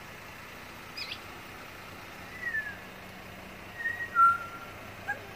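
Birds whistling a few separate clear, person-like notes: a short falling note about a second in, another falling slur, then two held notes near the end, the second one lower and the loudest.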